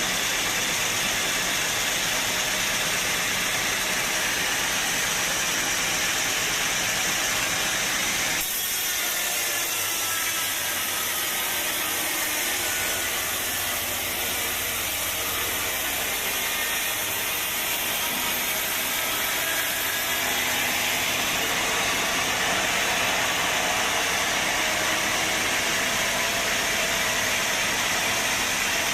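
Sawmill saw cutting through a teak log, a steady machine noise that changes character about eight seconds in.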